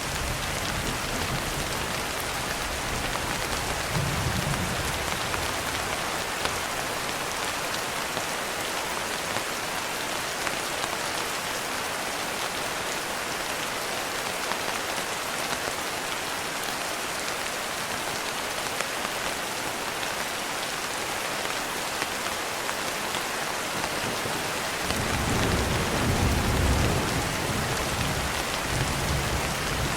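Steady rain falling, a dense even patter. A low rumble of distant thunder comes briefly about four seconds in and swells again in the last few seconds.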